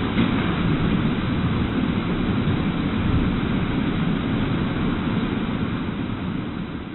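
Steady rushing rumble of tsunami floodwater, easing off near the end.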